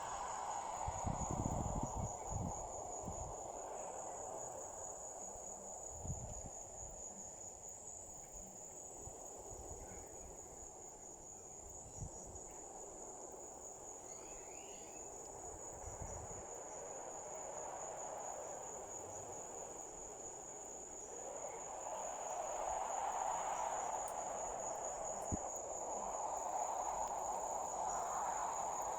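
Insects trilling in one steady, unbroken high-pitched tone, over a soft rushing background noise that grows louder about three-quarters of the way through, with a few low thumps near the start.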